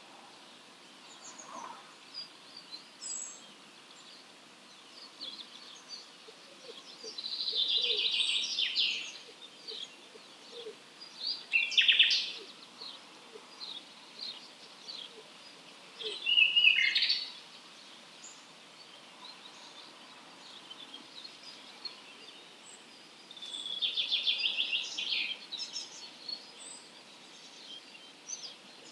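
Wild songbirds in an early-morning dawn chorus: many brief chirps throughout, a loud rapid trilling phrase of about two seconds a quarter of the way in and again near the end, and two sharp downward-sweeping calls in between.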